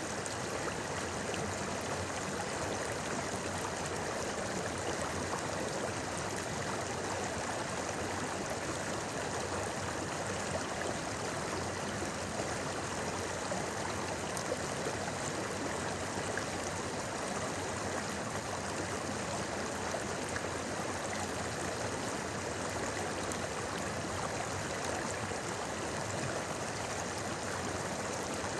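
River water babbling steadily with an even rushing murmur.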